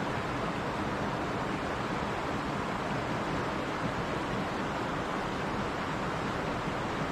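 Mountain stream rushing and babbling over rocks, a steady even water noise.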